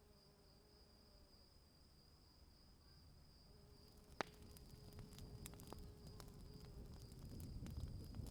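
Faint nature ambience of crickets trilling steadily. About halfway in, a scatter of sharp clicks and crackles begins and slowly grows louder.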